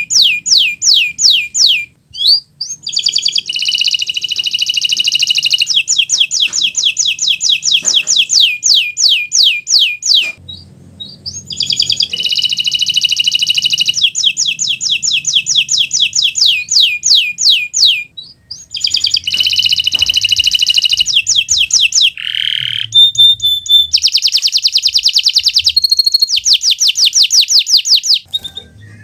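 Kenari Nusantara canary singing a long, loud song: fast runs of repeated downward-sweeping notes alternating with dense rolling trills, with brief pauses about 2, 10 and 18 seconds in.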